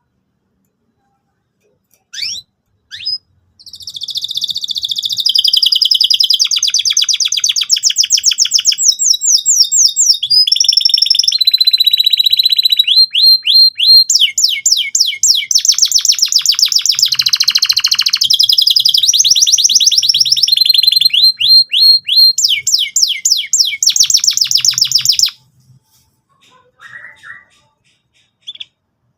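Domestic canary singing a long, loud song of fast trills, rapid repeated notes in changing phrases, opened by two short chirps. The song breaks off suddenly near the end.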